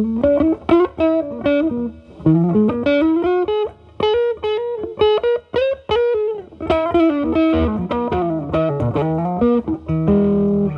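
Electric guitar with humbucker pickups played through an MXR Distortion+ pedal into a Marshall Valvestate amp's drive channel, with the guitar's volume rolled back to clean up the overdriven tone. It plays improvised single-note lead lines with string bends, ending on a held chord about ten seconds in.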